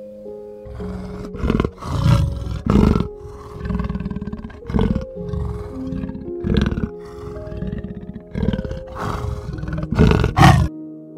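Big cat growling and roaring in a long series of rough, loud calls, stopping shortly before the end. Soft piano music plays underneath.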